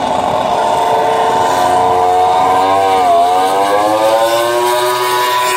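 MotoGP racing motorcycle engine running at high revs on the track, its pitch dipping briefly about three seconds in and then climbing steadily as it accelerates.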